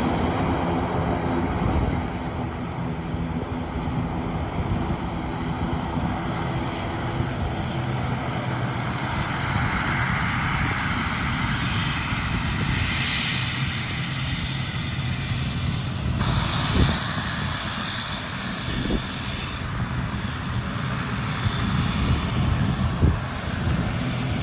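Airliner engines running steadily, a continuous engine noise with low droning tones.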